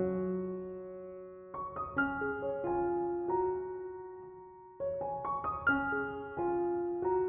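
Soft background piano music: short runs of notes, each group left to ring and fade slowly.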